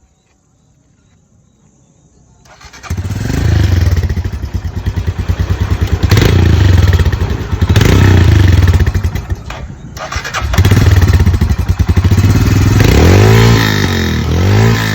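A Royal Enfield Himalayan's single-cylinder engine, through its stock exhaust, starts about two and a half seconds in and is then blipped and revved repeatedly, dropping back between throttle openings, with quick up-and-down revs near the end.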